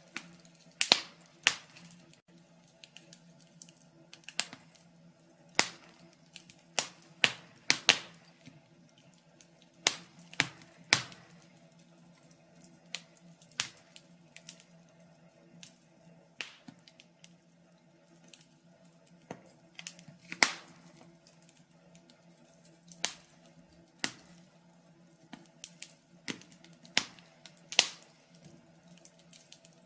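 Wood fire crackling: irregular sharp pops and snaps, often a few seconds apart and sometimes two or three in quick succession, over a faint steady hum.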